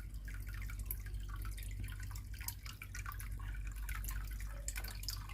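Dirty water trickling and dripping from the Bosch washing machine's opened drain into a plastic basin, with many small splashes. The machine is being drained by hand because it shows an E18 error and will not pump out its water.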